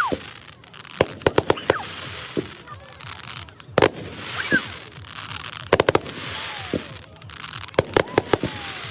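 Aerial fireworks going off: sharp bangs in quick clusters of two to four several times, with crackling between them and a few short falling whistles.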